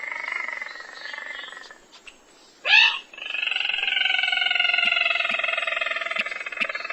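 Recorded lure calls of the sintar, a paddy-field rail. A long, drawn-out call with several stacked, slowly falling tones fades out, a short loud sweeping note sounds just under 3 s in, and then comes another long, slightly falling call lasting about three and a half seconds.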